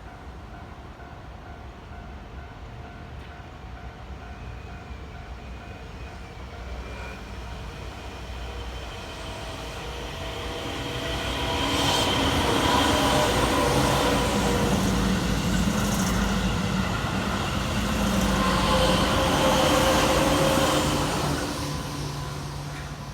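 Keihan electric train approaching and passing at speed on the Keihan Main Line, rising from about eight seconds in, loudest through the middle and later part, then fading near the end.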